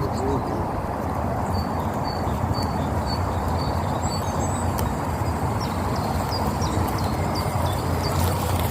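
Magic Mobility Extreme X8 all-terrain powerchair driving along, its electric drive motors and tyres making a steady drone. Over it a bird repeats a short high note about twice a second.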